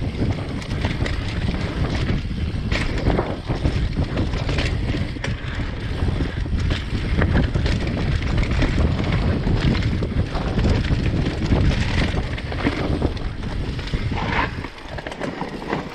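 Mountain bike riding over a dirt singletrack trail: tyres rolling, with occasional knocks and rattles over bumps and wind buffeting the microphone. It gets quieter about a second before the end.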